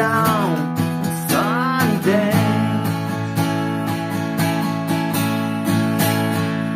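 Acoustic guitar strummed in a steady rhythm, chord after chord. In the first two seconds or so a voice glides up and down over it without words.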